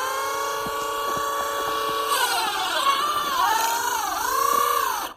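Electric motor and drivetrain of a Traxxas Rustler 2WD RC truck whining, held at one pitch at first, then from about two seconds in rising and falling repeatedly as the throttle is worked, and cutting off at the end.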